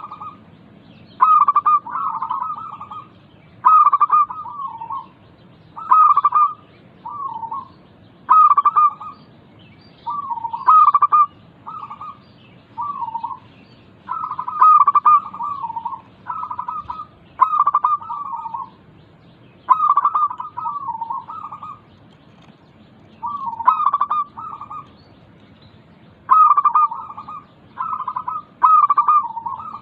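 Zebra doves (perkutut) cooing: repeated staccato coo phrases about every two seconds, each a loud burst trailing into softer notes.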